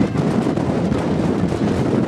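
Moving passenger train heard from an open carriage window: a steady rumble of wheels on the track, with wind buffeting the microphone.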